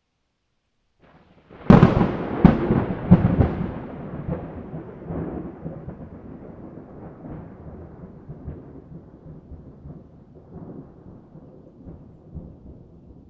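Thunderclap: a sharp crack about two seconds in, followed by several more cracks, then a long rumble that slowly fades away.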